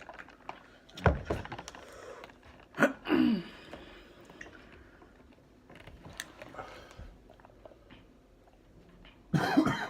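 Close-up eating sounds: chewing a sub sandwich, with a sharp knock about a second in and short louder noises around three seconds and near the end.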